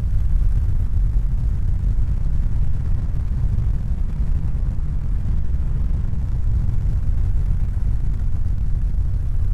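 Steady deep rumbling noise, heaviest in the bass, with no distinct tones or individual events.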